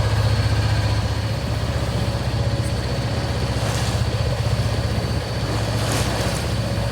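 A yacht's engine running steadily with an even low throb, with two brief rushes of wind or water about four and six seconds in.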